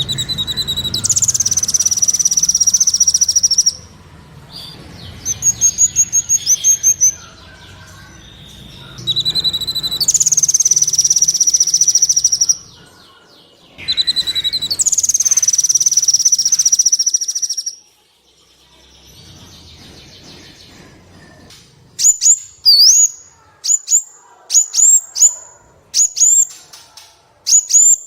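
Sunbird singing: long, rapid, high-pitched trills lasting two to three seconds each, repeated with short pauses. Near the end these give way to a run of short, sharp whistled notes that sweep down and back up.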